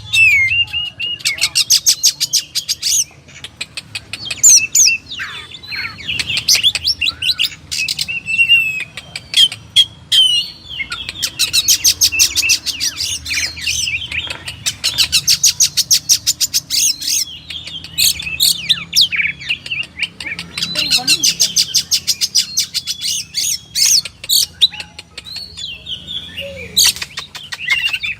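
Oriental magpie-robin (kacer) singing loudly: long, rapid rattling runs of high notes alternating with short whistled phrases that slide up and down.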